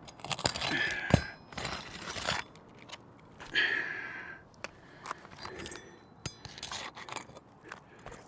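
Irregular scrapes and clicks of hand tools working at asphalt roof shingles and their roofing nails, with a sharp knock about a second in and longer scraping a few seconds in.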